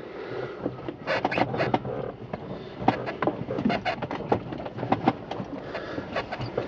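Irregular small clicks, knocks and rustling of someone handling things and moving in a seat inside a small aircraft cockpit, over a faint steady hum.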